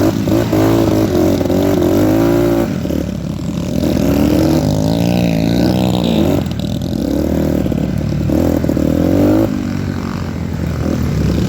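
Dirt bike engine revving, its note rising and falling over and over as the throttle is worked.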